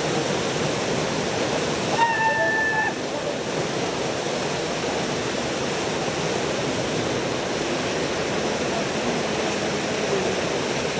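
Steady rushing noise of a waterfall, with a brief high, steady tone about two seconds in.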